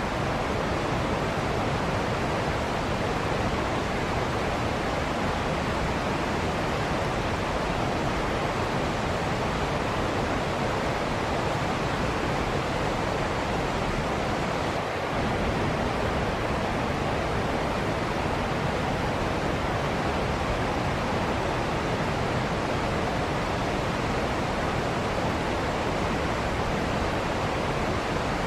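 Waterfall: falling water making a steady, even noise, with only a brief slight dip about halfway through.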